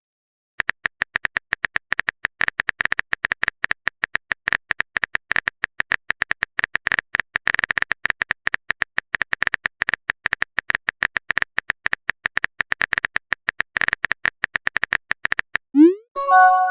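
Rapid, irregular clicks of a phone keyboard typing sound effect, many per second. Near the end a message chime sounds: a quick rising sweep followed by a few short steady tones.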